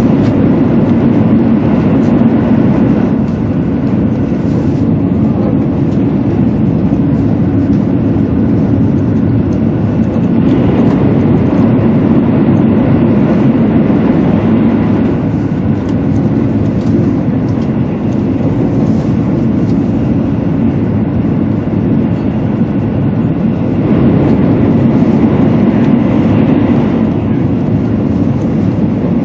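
Steady, loud running rumble inside the cabin of a 200 Series Shinkansen travelling at speed, largely through a tunnel.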